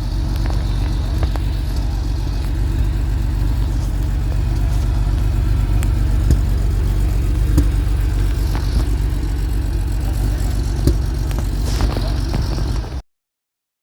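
Car engine running steadily at idle with a deep exhaust note, cutting off suddenly near the end.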